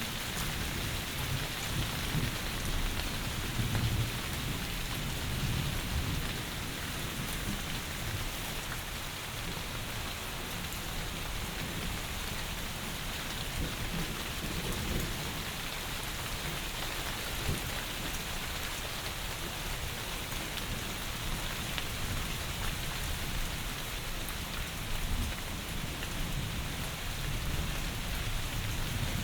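Heavy rain falling steadily, a dense even hiss of drops, with low rolls of distant thunder swelling in and out a few times.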